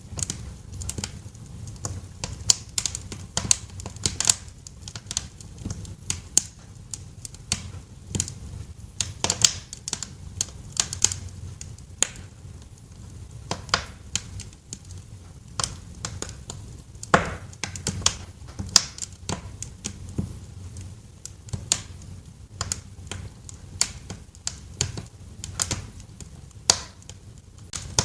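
Wood fire crackling in a fireplace: irregular sharp snaps and pops, a few louder ones, over a steady low rumble of the burning fire.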